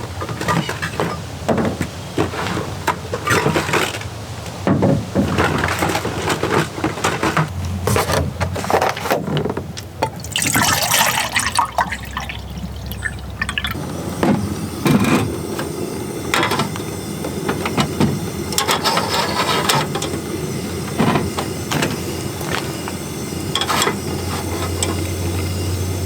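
Water poured into a pot, among the clinks and knocks of camp cooking gear being handled.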